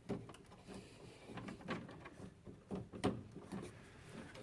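Irregular small clicks and knocks of hands working wire connectors onto the terminals of a refrigerator's new water inlet valve. The sharpest knock comes about three seconds in.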